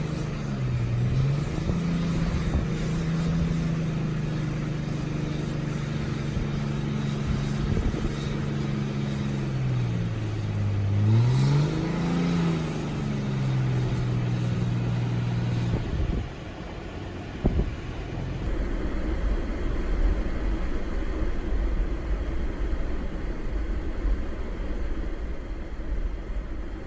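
Car engine running, its pitch rising and falling as it speeds up and slows. About sixteen seconds in the engine note fades out and a steady low rumble with hiss, like road or wind noise, takes over.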